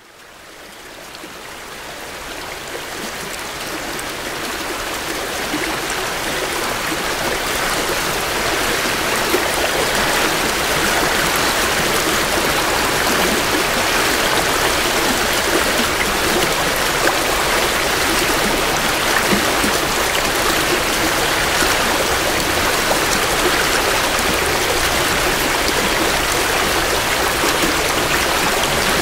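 A creek running over rocks, a steady rushing and burbling of flowing water recorded close to the bank. It fades in over the first several seconds and then holds steady.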